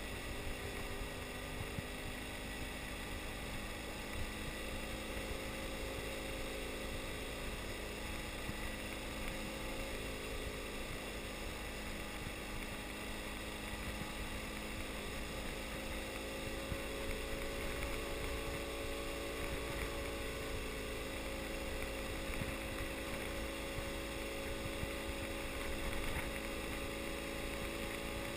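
BMW F800GS parallel-twin engine running at low, steady revs as the motorcycle rides slowly over a dirt road, with tyre and wind noise underneath. The engine note rises slightly a little past the middle, then holds steady.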